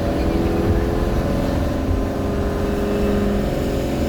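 A motor vehicle's engine running steadily with a low rumble, a steady hum throughout.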